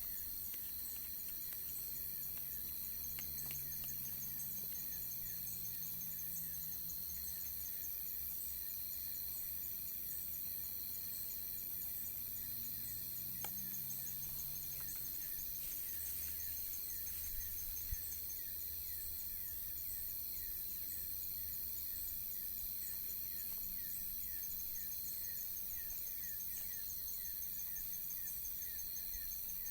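Insects chirping steadily in trains of rapid, high pulses over a constant high hiss, with a low rumble underneath. There are a couple of faint clicks in the middle.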